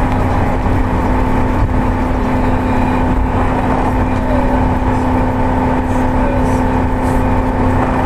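Car driving: steady engine hum and road noise heard from inside the cabin.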